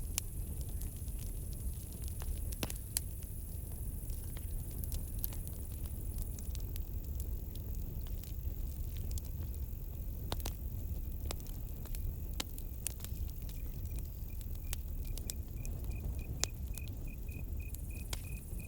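Campfire crackling, with frequent sharp pops and snaps over a low steady rumble of burning wood. About two-thirds of the way in, a cricket starts chirping in a fast, even pulse.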